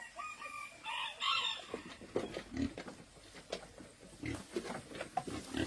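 A rooster crowing in about the first second and a half, followed by a run of irregular knocks and dull thumps.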